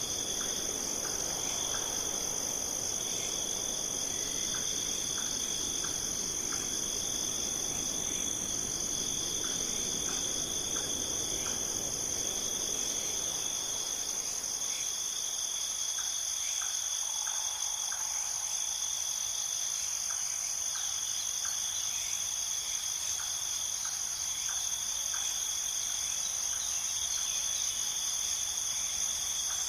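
A steady, high, continuous chorus of crickets and other insects trilling. A low rush of noise beneath it fades out about halfway through.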